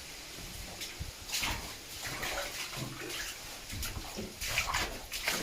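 Footsteps splashing and sloshing through water and mud along a flooded mine tunnel, in uneven strokes.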